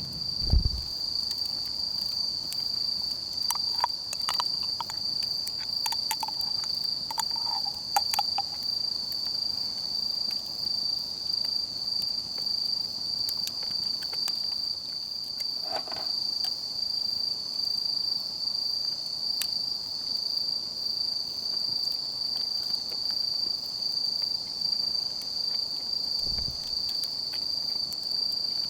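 Insects chirring in one steady, unbroken high-pitched drone, with a few faint clicks and knocks scattered over it and a low thump near the end.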